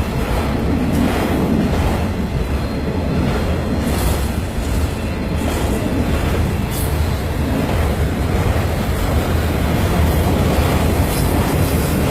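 Freight train cars rolling steadily past close by, a continuous rumble of steel wheels on rail. It is a CN mixed freight carrying autorack car-hauler cars.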